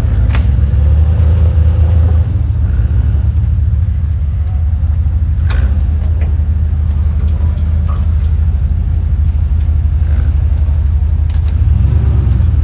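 Off-road truck engine running at a low, steady rumble, with a few sharp clicks or knocks from the rig, near the start, about halfway through and shortly before the end.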